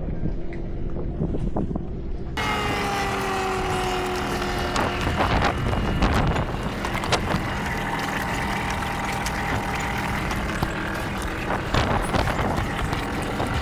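A sailboat's engine running steadily, with wind buffeting the microphone and a few knocks and clunks.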